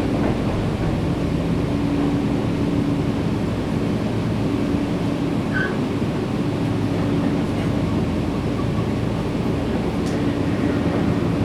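Steady hum of a Nankai 7100 series electric train's onboard equipment while the train stands at a station with its doors open, a constant low drone with a few held tones.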